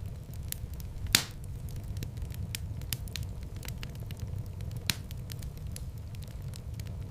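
Wood fire in a fireplace crackling steadily over a low rumble, with a sharp loud pop about a second in and another a little before the end.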